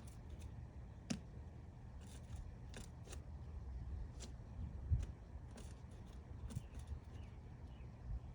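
Woodpecker tapping and chiselling at wood while excavating its nest hole: scattered sharp taps at irregular spacing, about one a second, with a heavier knock about five seconds in, over a low steady rumble.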